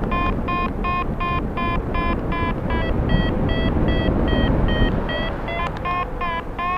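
Paragliding variometer beeping about three times a second, its pitch wandering up and down, then quickening and rising in pitch near the end: the glider is climbing in lift. Wind rushing over the microphone underneath.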